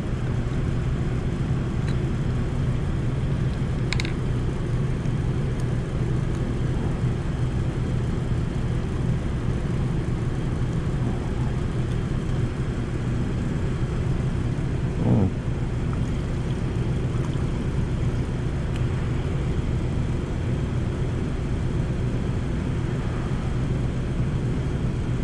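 A steady low machine hum, with a faint click about four seconds in and a brief short sound about fifteen seconds in.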